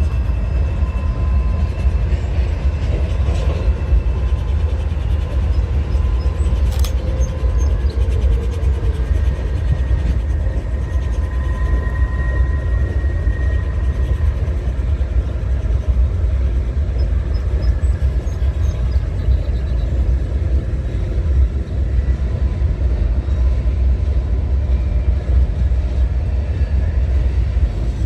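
Freight train rolling past, a steady loud rumble of cars on the rails.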